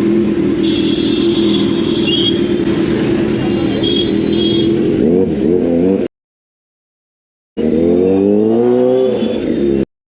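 Kawasaki Z900 inline-four superbike engine running steadily, then revved up and down in short blips. The sound cuts out to total silence twice, about six seconds in and near the end.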